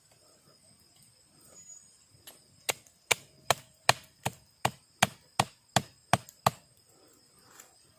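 Chopping into wood with about a dozen sharp, evenly spaced strikes, a little under three a second, starting a few seconds in. Insects trill steadily throughout.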